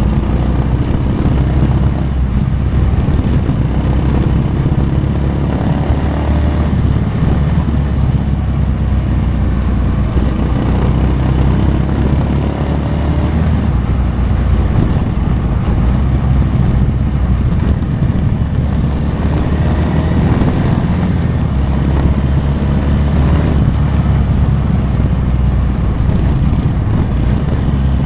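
Motorcycle engine running steadily while being ridden, its pitch rising and falling a little in places with the throttle.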